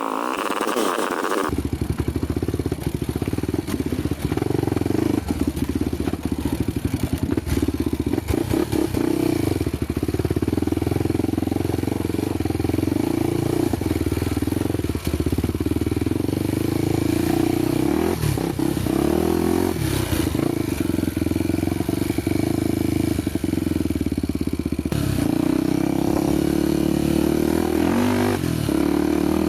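Honda motorcycle engine running steadily on an off-road trail ride, with frequent short knocks and rattles from the bike going over rough ground.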